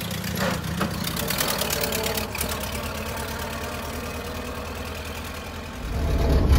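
1928 Ford Model A's four-cylinder flathead engine running steadily as the car drives past and away. About six seconds in it gets louder, heard up close from inside the open car.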